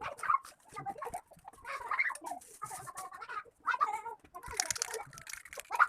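Chickens clucking over and over, in short pitched calls. About four and a half seconds in, a second of hissing joins them.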